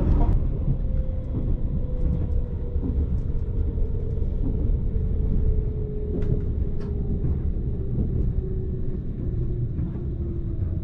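Running noise of a JR Kyushu 787 series limited express heard inside the car: a steady low rumble of wheels on rail, with a motor whine falling slowly in pitch as the train slows toward a station. There are a few short sharp clicks around the middle.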